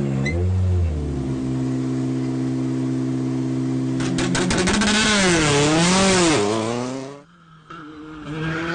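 Rally car engine at high revs. It holds a steady pitch, then revs rise and fall quickly with a rapid crackle of exhaust pops on the overrun. The sound cuts off abruptly about seven seconds in.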